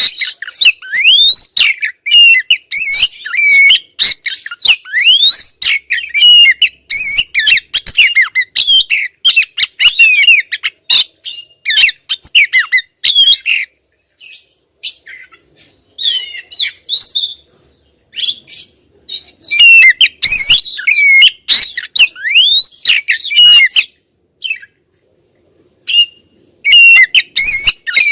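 Female Oriental magpie-robin (kacer) calling insistently: quick runs of varied whistles, chirps and rising whistled notes, with short harsh clicks between them. The calling breaks off for a few seconds in the middle and again near the end.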